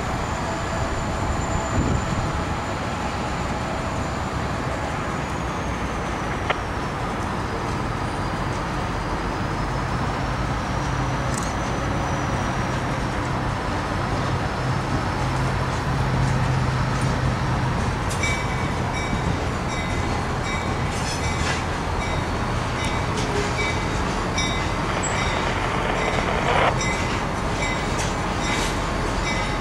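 Diesel freight locomotive approaching slowly with a train of covered hopper cars: a steady engine rumble and low hum, joined about two-thirds of the way through by a series of sharp clicks from wheels and cars on the track.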